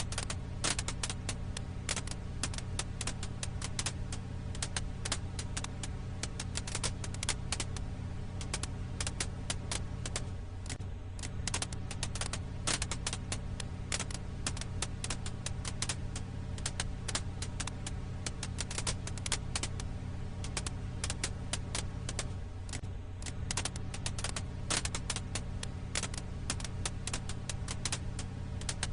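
Firewood crackling in a campfire, with many irregular small pops and snaps over a steady low hum.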